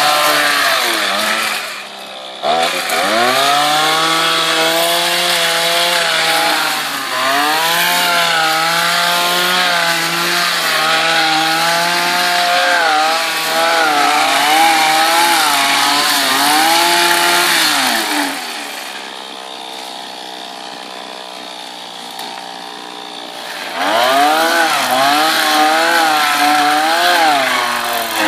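Petrol chainsaw revving up and down as it cuts branches, its pitch rising and falling with each cut. It dips briefly about two seconds in, drops back to a quieter idle for about five seconds in the second half, then revs up again.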